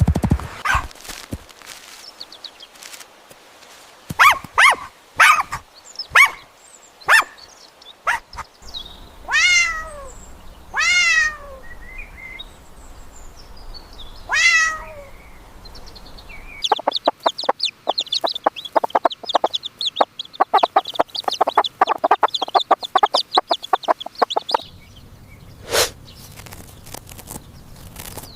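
A string of recorded farmyard animal calls: a few short hen clucks, then a domestic cat meowing three times, each meow falling in pitch. After that comes a run of rapid, closely spaced short calls lasting about eight seconds, and one short call near the end.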